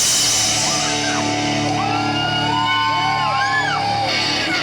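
Live rock band playing, with held low chords under gliding, bending high notes.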